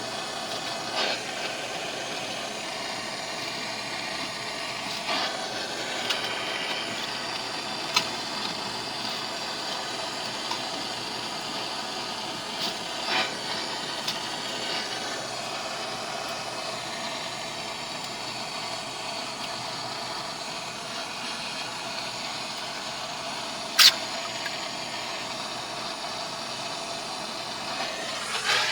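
Electric arc welding: a steady sizzling hiss, broken by a few sharp pops, the loudest a little over three-quarters of the way through.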